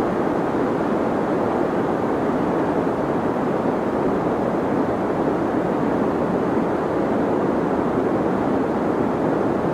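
Deep white noise played for sleep: a steady, unbroken rushing hiss with its weight low and in the middle, muffled with little treble.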